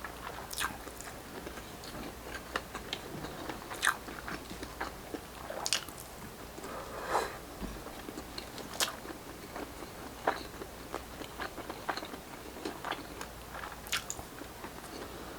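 Close-up chewing and biting of grilled street-food barbecue: irregular crunches and mouth clicks, a few louder bites scattered through.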